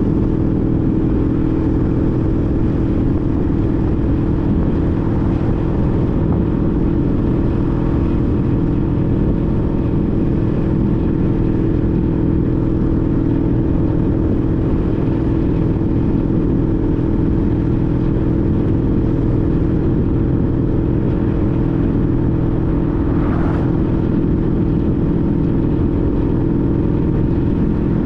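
2014 Honda CTX1300's V4 engine running at a steady cruising speed, holding one even pitch with no revving up or down.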